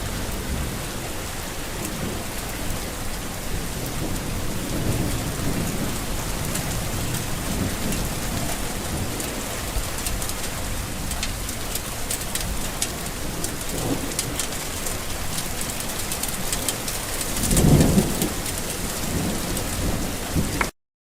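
Steady heavy rain falling, with sharp drop splats, and a low roll of thunder swelling about three-quarters of the way through, the loudest moment. The sound cuts off suddenly just before the end.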